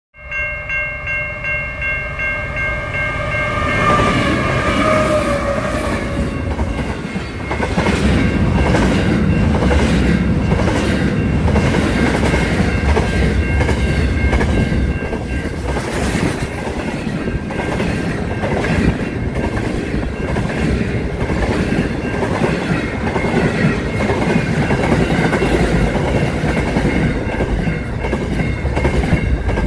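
Intermodal freight train passing close by: a pitched, multi-tone horn sounds as it approaches and drops in pitch as the locomotive passes, about four to six seconds in, followed by the loud rumble of wagons and the repeated clickety-clack of wheels over rail joints.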